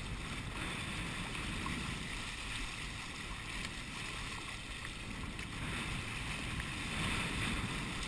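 Steady rush of water along the hull of a sailing kayak under way, with wind rumbling on the microphone.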